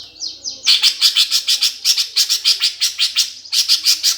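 Eurasian tree sparrows fighting. A few falling chirps give way, just under a second in, to a loud, rapid run of harsh chirps at about seven a second, with a brief break near the end.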